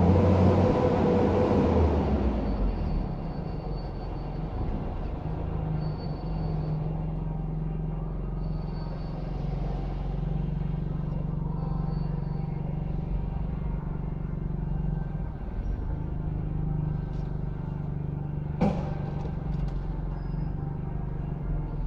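Clamp-attachment forklift truck running: a steady low machine hum of engine and hydraulics. It is louder and rising for the first two seconds, and there is a single sharp knock about nineteen seconds in.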